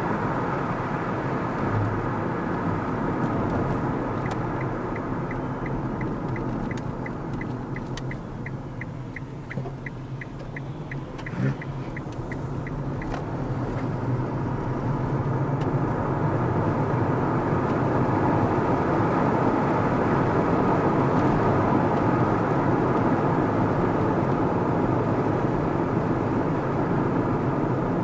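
Car driving, with steady tyre and engine noise heard from inside. For several seconds near the start a turn indicator ticks about three times a second. The noise drops as the car slows, a brief thump comes about halfway through, and then the noise builds again as the car speeds back up.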